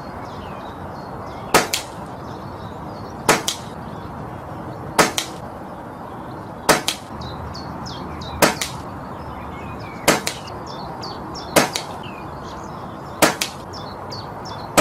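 Brocock Concept PCP air rifle firing a string of eight shots, about one every second and a half to two seconds. Each sharp report is followed a split second later by a second, quieter crack, the pellet striking the target. Birds chirp faintly in the background.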